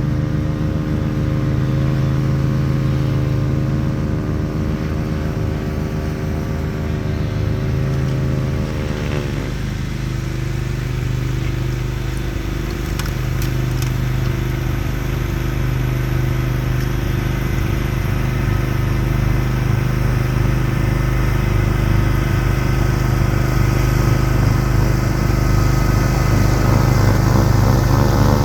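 Craftsman YT4000 lawn tractor engine running steadily while driving a Bercomac Northeast 44-inch snowblower attachment through heavy wet snow. Its pitch drops about a third of the way in, then holds steady and grows a little louder near the end.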